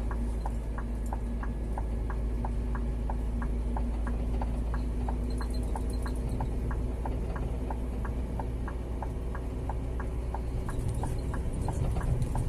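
Scania G 410 truck's diesel engine running at a low steady drone, heard from the cab, with an even indicator-flasher ticking about three times a second.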